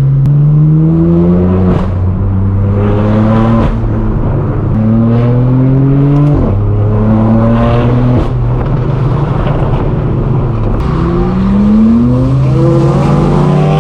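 Straight-piped BMW M4 F82's twin-turbo inline-six (AWE non-resonated track exhaust) accelerating hard through the gears, heard from inside the car. Its pitch climbs in several pulls, each cut off by a quick drop at an upshift.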